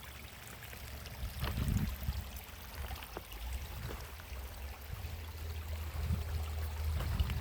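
Water running, like a stream, with a steady low rumble underneath and a few faint clicks.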